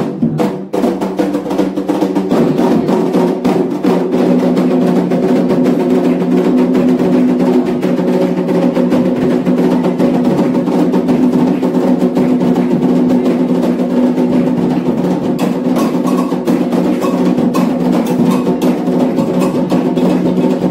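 Candomblé atabaque drums played in a fast, continuous rhythm, with sharp wood-block-like strikes and steady sustained tones underneath.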